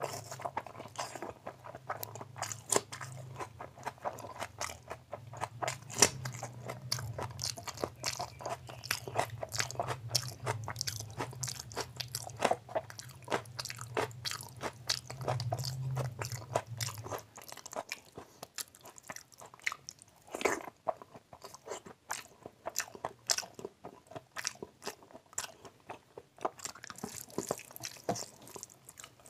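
Close-miked mouth sounds of a man eating rice with fatty mutton curry by hand: dense wet chewing and smacking clicks throughout, with his fingers squishing rice in the plate. A low hum underneath stops about two-thirds of the way through.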